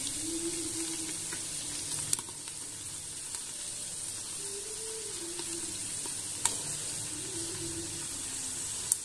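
Sliced onions, green chillies and herbs sizzling steadily in hot oil and ghee in a stainless steel pressure cooker, with a few sharp clicks: one about two seconds in, one past halfway and one near the end.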